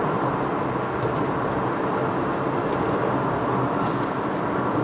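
Steady road noise and engine drone inside the cabin of a 2013 Honda Civic Hybrid cruising at highway speed on cruise control.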